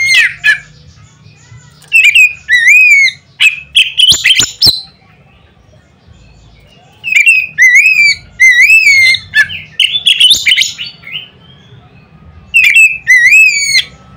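Oriental magpie-robin (kacer) singing loud, fast phrases of sliding whistled notes in repeated bursts, with a pause of about two seconds in the middle.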